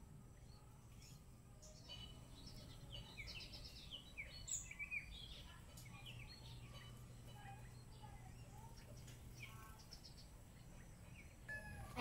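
Small bird chirping faintly: a quick burst of short twittering notes a couple of seconds in, then a few scattered chirps, over a low steady background hum.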